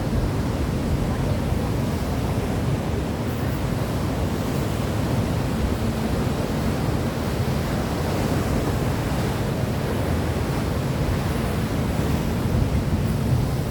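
Steady low rushing noise, heaviest in the bass, swelling slightly near the end.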